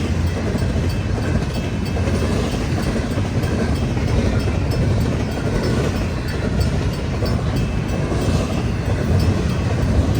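CN freight train's rail cars rolling past: a steady rumble with light repeated wheel clicks.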